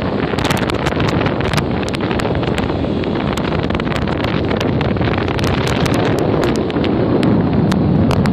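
Wind buffeting the microphone in a loud, steady rumble, with many sharp clicks and rattles scattered through it.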